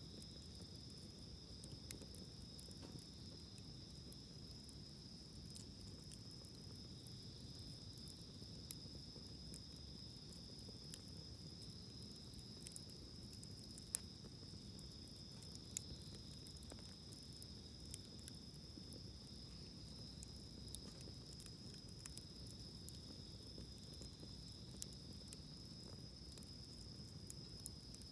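Campfire burning with scattered sharp crackles and pops, over a steady high-pitched drone of insects such as crickets.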